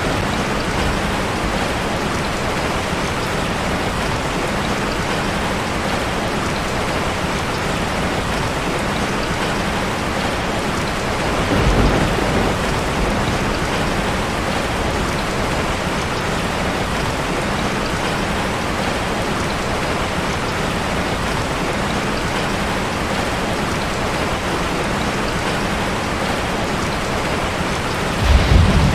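Steady rain drumming on a metal roof. A low rumble of thunder swells about halfway through and another starts right at the end.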